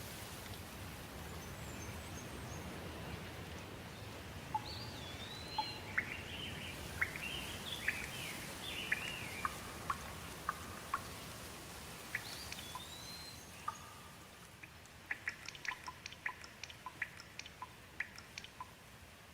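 Steady light rain with songbirds calling: chirps and short whistled phrases between about 4 and 13 seconds in. Later the rain thins, and a quick run of sharp short ticks or chips follows near the end.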